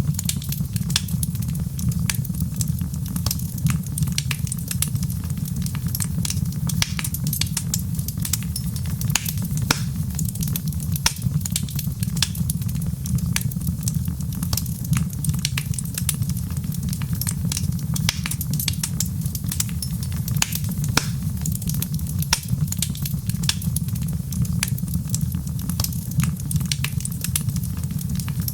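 Wood fire crackling: a steady low rumble of burning with frequent sharp, irregular pops and snaps.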